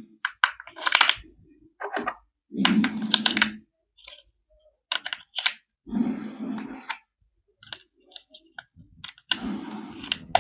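Plastic toy and packaging being handled: many sharp clicks, with three short rustling bursts about three seconds apart.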